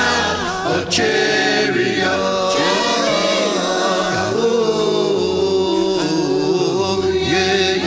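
A cappella gospel singing: held notes that slide and bend, with no clear words.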